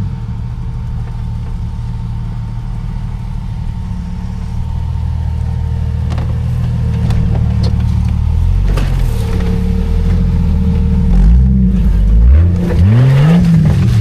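A 4x4's engine working under load off-road, getting gradually louder, then revved up and down sharply several times near the end.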